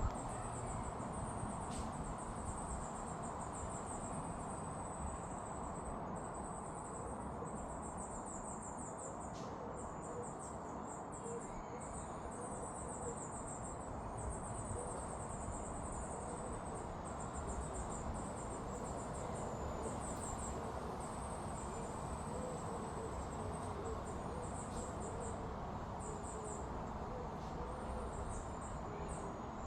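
Singing insects chirping in continuous runs of rapid high-pitched pulses, over a steady background hiss.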